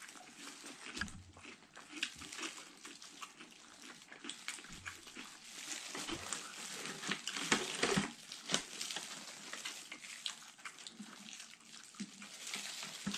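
Close-up chewing of fried squid and shrimp in batter: mouth noises with many small irregular crunchy clicks and crackles.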